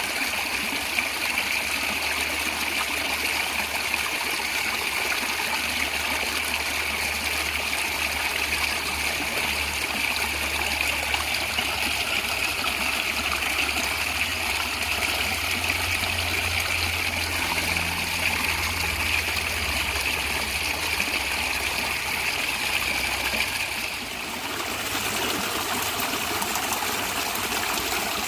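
Natural stream water flowing, gurgling and trickling steadily. The sound dips briefly and changes slightly in character near the end.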